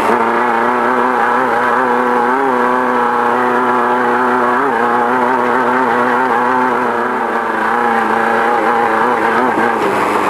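Off-road race car's engine running at steady high revs, heard from inside the car, its pitch wavering slightly with small rises and dips.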